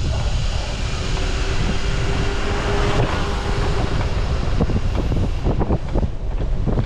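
Wind buffeting the microphone of a camera on a moving bicycle: a steady low rumble with a rushing hiss above it. A faint steady tone sounds from about one to four seconds in.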